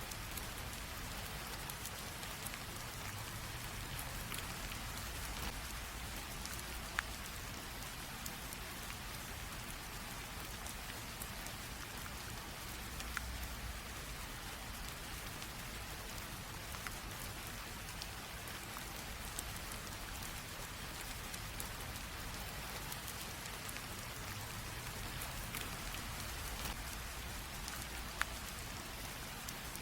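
Steady light rain falling on a surface, an even hiss with scattered individual drops ticking through it.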